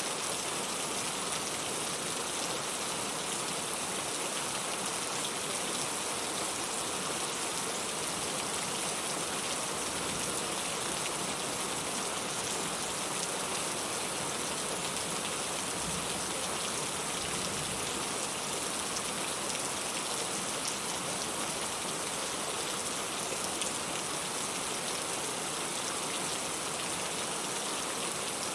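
Steady rain falling: an even, unchanging hiss, strongest in the high end.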